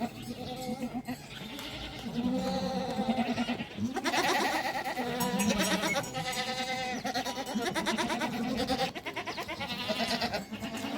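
A flock of livestock bleating, many calls overlapping, the calls thickest and loudest from about four seconds in.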